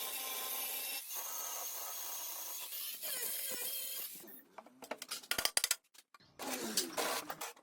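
Workshop tool noise on metal: about four seconds of steady abrasive rubbing, like brushing or sanding, then clusters of rapid clicks and taps.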